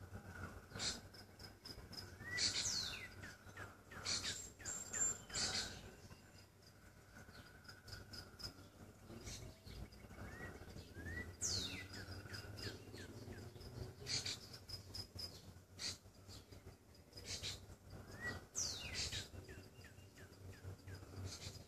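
Faint bird chirps: three high whistles that fall in pitch, with short rising chirps, a thin steady high note that comes and goes, and scattered short clicks.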